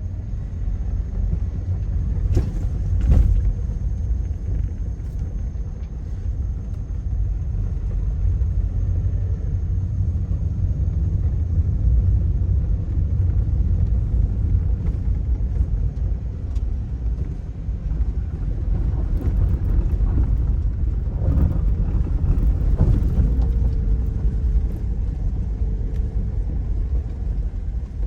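Steady low rumble of a vehicle on the move, with a few knocks about three seconds in and again near twenty-two seconds.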